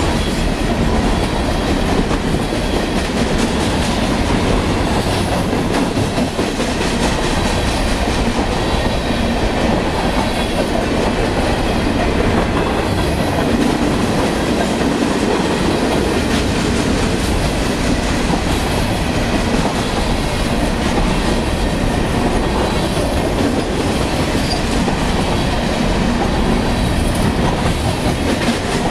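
Covered hopper cars of a Union Pacific manifest freight train rolling past close by: a steady, loud rumble of steel wheels on the rails that holds level with no letup.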